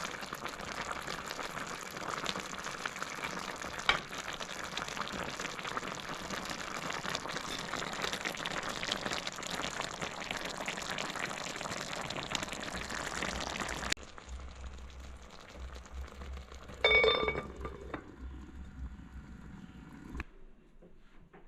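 Food sizzling and crackling as it cooks in a pot of pilaf. After about fourteen seconds it cuts off abruptly, and in the quieter stretch that follows there is one ringing metal clink.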